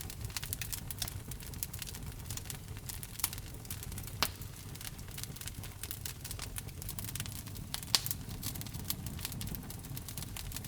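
Fire in a fireplace crackling steadily over a low rumble of flame, with frequent small pops. Two louder pops come about four seconds in and near eight seconds.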